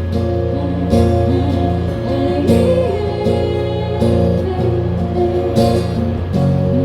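Live band music led by guitar: held chords with a wavering melody line over them, an instrumental passage between sung lines.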